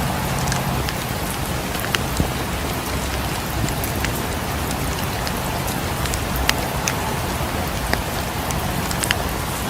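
Steady rain falling against a cabin's windows, with scattered sharp crackles and pops from a wood fire in a fireplace.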